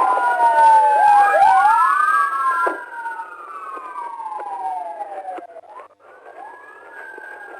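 Several police sirens wailing at once, their slow rising and falling tones overlapping. They are loudest for the first three seconds, then fainter, with a short gap about six seconds in.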